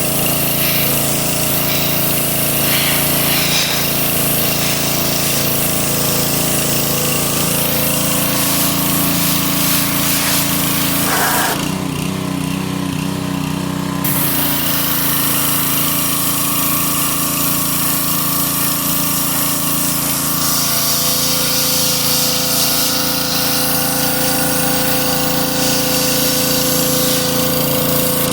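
A loud, steady motor-driven machine running, with a short change in its sound between about twelve and fourteen seconds in.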